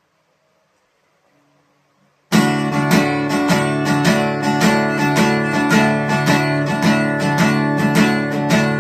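Acoustic guitar being strummed in a steady, even rhythm. It comes in suddenly a couple of seconds in, after near silence and a few faint single notes.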